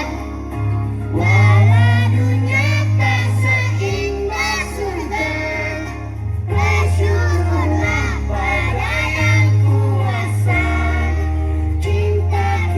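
Children's choir singing a song together over an instrumental accompaniment whose low bass notes change every couple of seconds.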